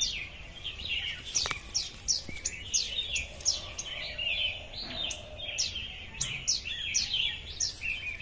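Birds chirping: a steady run of short, high chirps falling in pitch, about two a second, over a busier twittering.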